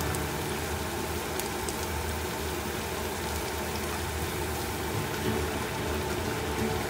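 Onion kakiage fritters deep-frying in canola oil at about 170 °C in a deep frying pan: the oil bubbles around the batter with a steady crackling sizzle.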